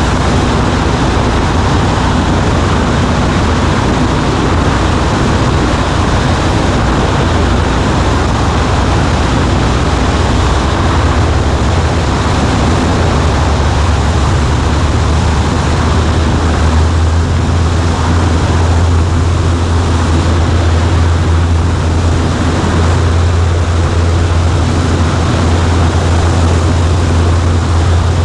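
Cessna 140A's Continental C-90 engine and propeller in cruise, heard inside the cockpit as a loud, steady drone over rushing air. A low hum grows steadier about ten seconds in.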